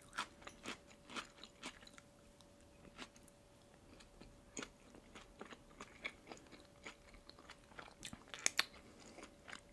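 Close-miked chewing of a red caviar sandwich (salmon roe on bread): soft, wet mouth clicks and small pops of the roe bursting, with a cluster of louder clicks about eight seconds in as another piece goes into the mouth.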